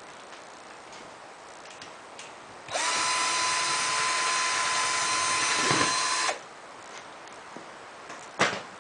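Power drill running at a steady speed for about three and a half seconds, then stopping. A sharp click follows near the end.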